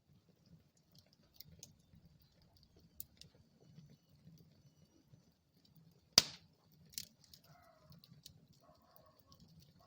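Wood fire in a fireplace crackling with scattered small pops. There is one loud, sharp pop about six seconds in and a second pop about a second later, over a faint low rumble of the burning fire.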